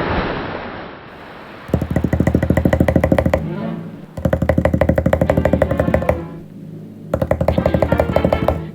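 Cartoon woodpecker pecking sound effect: three bursts of about two seconds each, rapid machine-gun-like rattling with a buzzing tone under it. A noisy hiss fades out during the first second.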